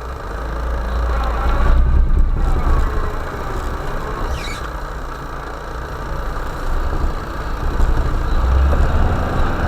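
UAZ Bukhanka van's engine working under load as the van picks its way around an obstacle off-road, heard from inside the cabin: a heavy low rumble that swells about half a second in and surges several times, with a few short high squeaks.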